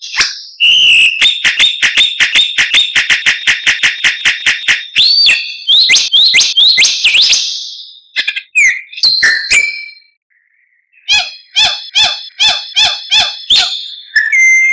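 White-rumped shama (murai batu) singing loudly. It gives a fast run of sharp, evenly repeated notes, about six a second, then a string of rising whistled slurs. After a short pause about two-thirds of the way through, it starts another series of repeated notes.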